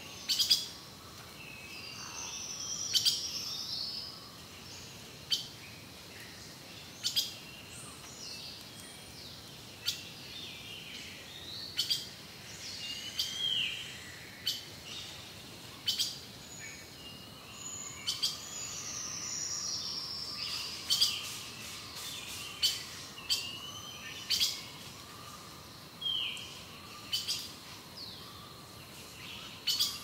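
Several wild birds singing and calling: sharp, loud chirps every second or two, and now and then a longer song that slides down in pitch.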